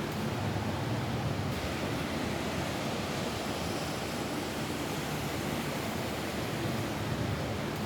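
Rain falling steadily on a roof: an even, unbroken hiss of dense rainfall with a low rumble underneath.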